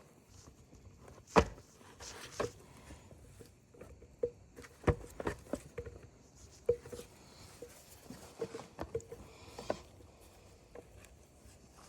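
Irregular light clicks and knocks of tools and small parts being handled during hand repair work on a chainsaw. The loudest knock comes about a second and a half in, with a quick run of clicks near the end.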